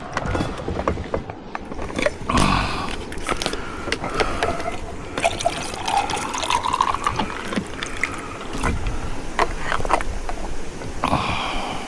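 Liquid pouring into a bottle, its pitch rising as the bottle fills, amid clicks of the bottle and cap being handled.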